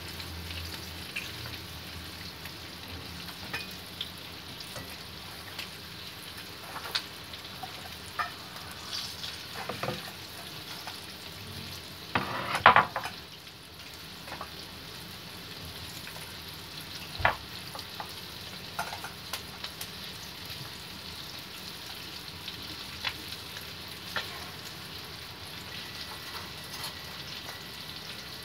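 Flour-coated chicken pieces frying in oil in a wok over medium heat: a steady sizzle broken by scattered pops and crackles, the loudest burst of spattering about twelve seconds in.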